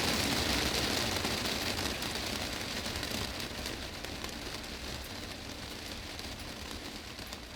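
Heavy rain falling on a glass greenhouse roof: a dense, steady patter of countless drops. A low rumble underneath fades away over the first few seconds, and the rain eases slightly in level.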